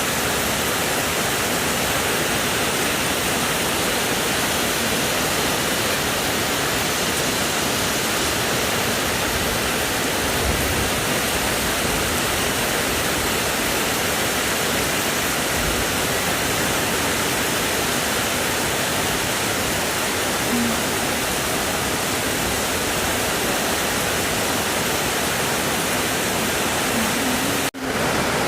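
Heavy rain pouring down in a steady, dense hiss, broken by a split-second drop-out near the end.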